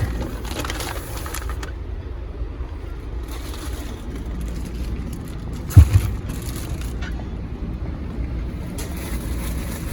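Steady low rumble of a car's road and engine noise heard from inside the cabin, with one sharp thump a little over halfway through.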